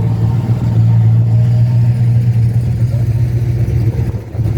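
A car engine running close by with a loud, steady low rumble that dips briefly near the end.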